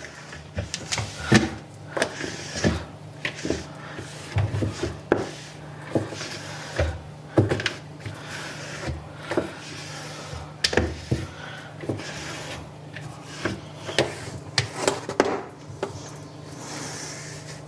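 Cleaning cloth wiping and rubbing over fridge shelves and drawers, with frequent irregular knocks and clatters as the parts are handled, over a steady low hum.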